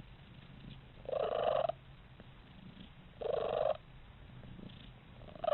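A domestic cat purring steadily, giving three short, even-pitched calls about two seconds apart.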